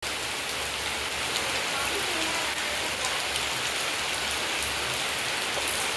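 Steady rain falling: a constant dense hiss with many scattered ticks of single drops striking a surface.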